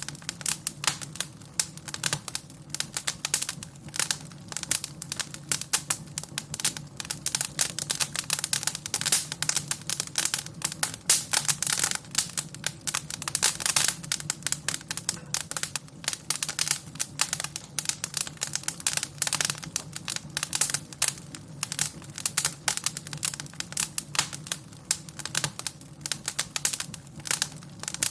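Wood fire crackling and popping, with dense irregular snaps over a low steady rumble of flames.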